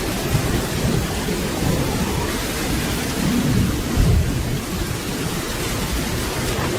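Steady rain hissing, with low rolling thunder rumbling underneath and a brief louder swell of rumble about four seconds in.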